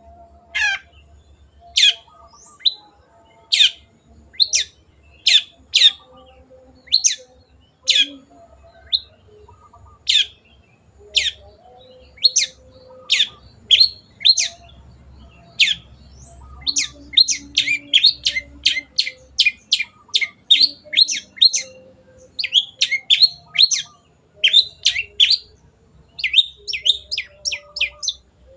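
Long-tailed shrike (cendet) calling: a series of short, sharp notes that sweep down in pitch, at first about a second apart, then quickening from about halfway into rapid runs of three or four notes a second.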